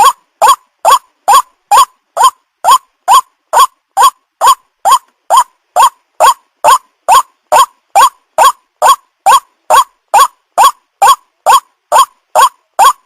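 White-breasted waterhen calling: short, loud calls repeated in a steady, unbroken rhythm of a little over two a second. This is a lure recording for drawing waterhens in.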